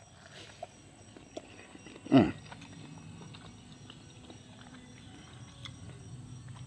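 Eating a fresh peach: faint, scattered chewing clicks, with one short voice-like sound falling in pitch about two seconds in.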